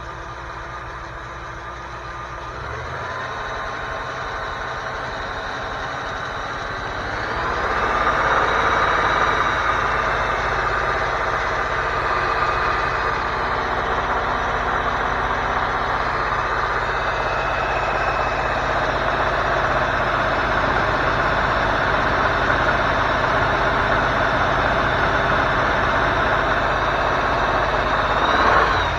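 Ford 302 V8 engine raised from idle in two steps, held at a steady higher speed for about twenty seconds, then let back down near the end. The owner believes the engine has rod knock.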